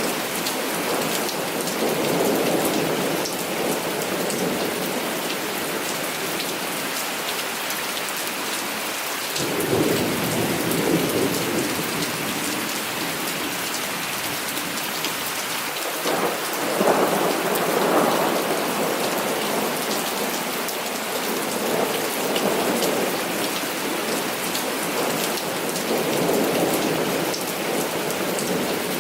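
Heavy rain falling steadily, with thunder rumbling through it several times; the strongest peal breaks in suddenly about halfway through and rolls on for a few seconds.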